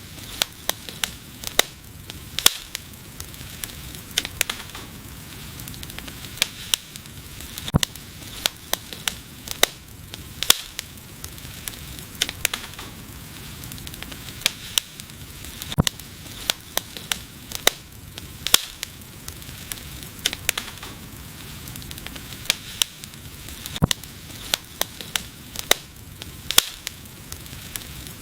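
Wood fire crackling: a steady hiss with sharp pops and snaps at irregular intervals, several a second.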